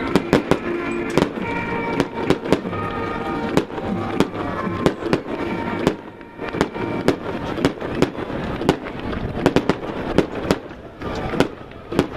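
Fireworks going off: a rapid, irregular string of sharp cracks and pops, with a brief lull about six seconds in and again near eleven seconds. Music plays underneath.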